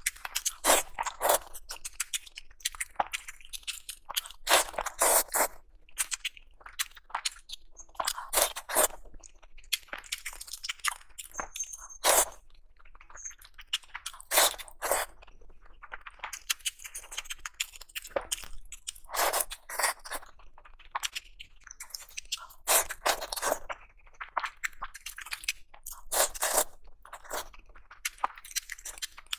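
Close-miked eating sounds: crunchy bites and chewing in irregular bursts, with occasional louder crunches.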